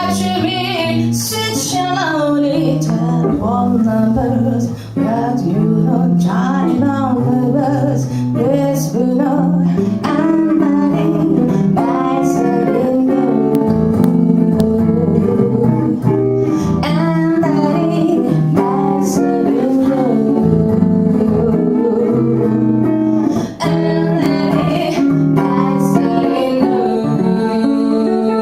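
Live jazz music: a guitar playing a swing tune, with a woman's voice singing at times.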